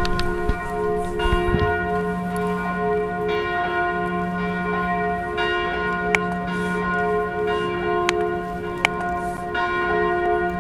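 Church bells ringing. Fresh strikes come about every two seconds and their tones overlap and hang on, with a few sharp clicks among them.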